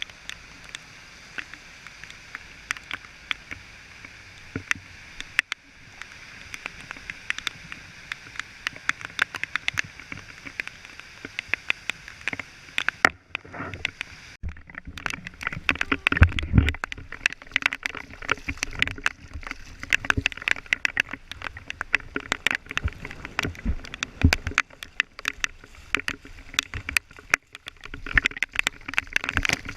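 Heavy downpour: a steady hiss of rain with many sharp drops tapping close by. It breaks off briefly about halfway through, then comes back denser and louder.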